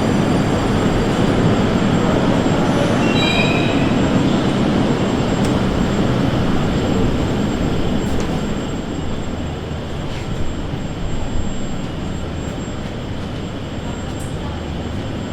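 Moscow Metro 81-775/776/777 «Москва-2020» train running and slowing, with a brief high wheel squeal about three seconds in, the running noise easing off from the middle onward.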